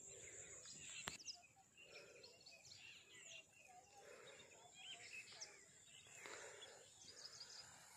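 Near silence with faint, scattered bird chirps and calls over soft background hiss, and one sharp click about a second in.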